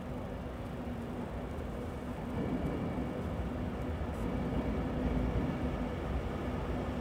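A train rumbling with a steady low hum, growing louder a little over two seconds in.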